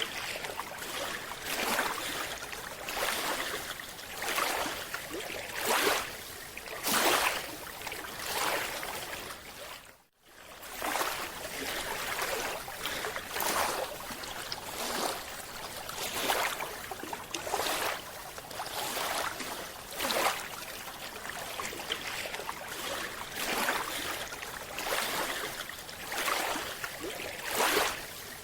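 Moving water rushing and sloshing in repeated surges about every one to two seconds, each swell rising and fading, with a brief break near the middle.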